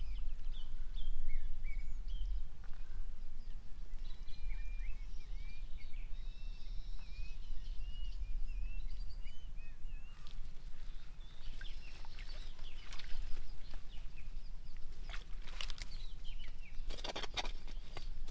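Outdoor ambience of small birds chirping in quick short calls over a steady low rumble. In the last few seconds a run of sharp clicks and knocks comes in.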